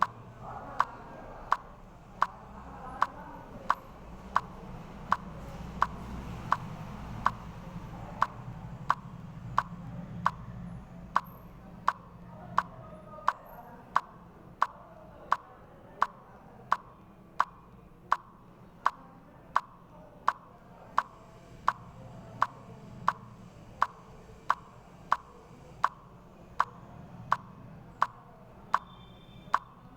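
Steady, evenly paced clicking, about three sharp clicks every two seconds, over a faint low hum.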